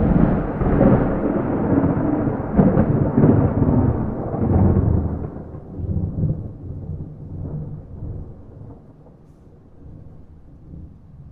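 A peal of thunder: loud rumbling with crackling peaks through the first five seconds, then rolling away and fading into a low grumble.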